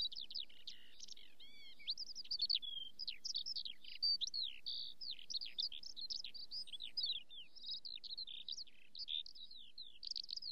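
Birdsong: a songbird singing a fast, nearly unbroken run of varied high chirps and whistles.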